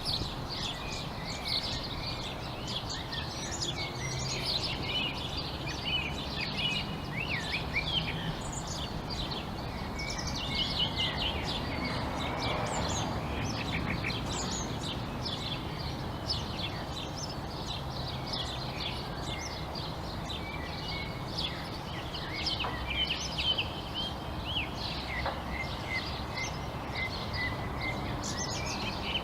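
Many songbirds chirping and calling at once, a busy chorus of short chirps and quick whistled glides, over a steady low background rumble.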